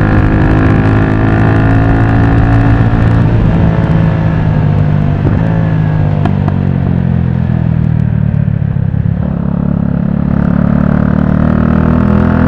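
Motorcycle engine running while riding, its note slowly falling as it eases off, then rising again in the last few seconds as it picks up speed.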